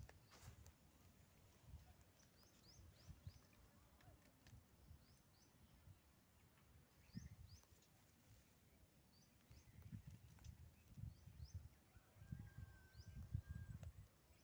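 Near silence with faint, repeated short high chirps of a small bird and low rumbles on the microphone.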